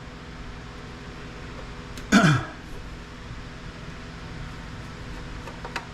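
A man clears his throat once, a short rasp with a falling pitch, about two seconds in. A faint click follows near the end, over a steady low background hum.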